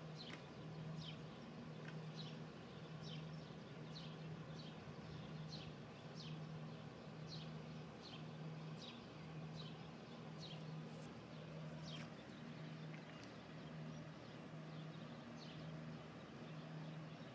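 A small bird chirping over and over, short falling chirps about one a second that fade out near the end, over a low hum that pulses on and off about once a second.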